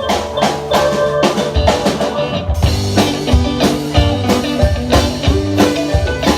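Live blues-rock band playing an instrumental passage: drum kit keeping a steady beat under electric guitar and bass, with the bass growing heavier about a second and a half in.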